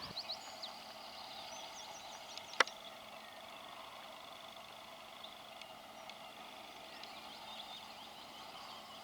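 Dawn countryside ambience: small birds singing in short high chirps over a steady hiss, with one sharp click about two and a half seconds in.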